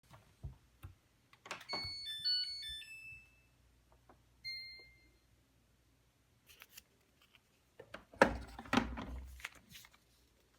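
Washing machine control panel: a couple of clicks, then a short electronic tune of beeps at changing pitches, like a power-on jingle, and a single beep a couple of seconds later as a button is pressed. About eight seconds in comes a louder cluster of knocks and thumps from handling the machine.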